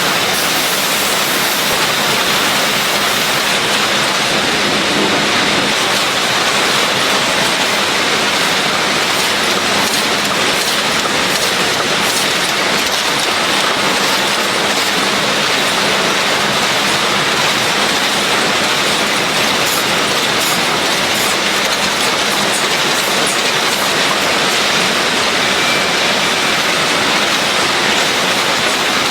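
Factory machinery on a car cabin air filter production line running steadily: a loud, even mechanical noise with faint scattered ticking.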